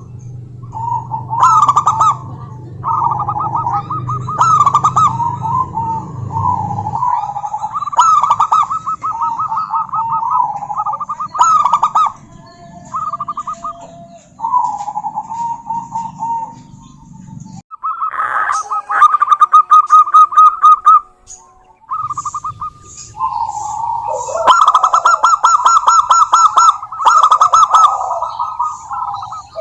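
Zebra doves cooing: rippling, trilled coo phrases repeated one after another, overlapping densely near the end. A low steady hum runs underneath and stops a little past halfway.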